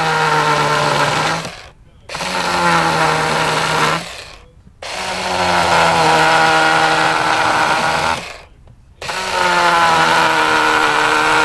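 Battery-powered electric chainsaw cutting letter slits into a wooden slab. It runs in four bursts with short pauses between, its pitch dropping a little as each cut begins.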